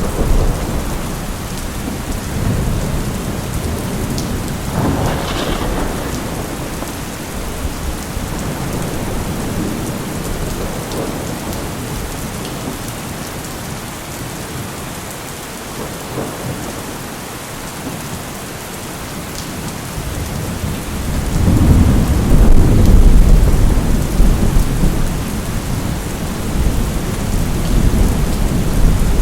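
Steady rain with rolling thunder. A low rumble near the start fades into a lull of rain alone, then a louder, deeper thunder roll builds about three quarters of the way through and rumbles on.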